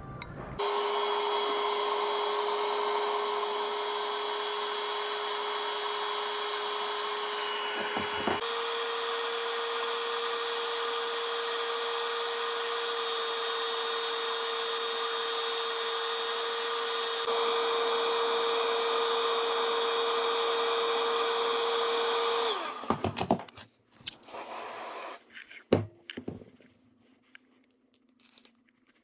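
A small electric motor, like a power tool's, running steadily at one pitch for about 22 seconds. It steps up slightly in pitch about a third of the way in and gets louder later, then stops. A few sharp knocks and clicks of handling follow.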